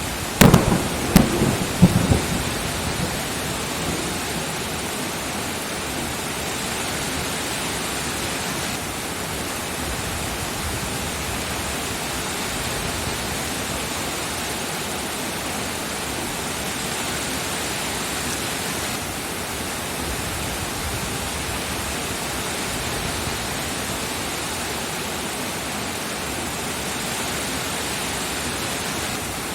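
Steady rain with a thunderclap: several sharp cracks about half a second in, rumbling on for a couple of seconds before the rain alone goes on.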